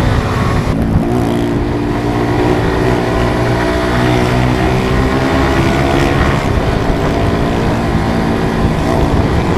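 Suzuki GSX-R150's single-cylinder four-stroke engine accelerating under load: its pitch climbs steadily for several seconds, drops with an upshift about six seconds in, then climbs again.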